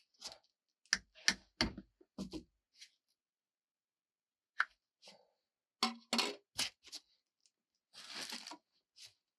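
A scattered series of sharp knocks and clicks from objects being handled in a small enclosed space, with a short tearing sound about eight seconds in.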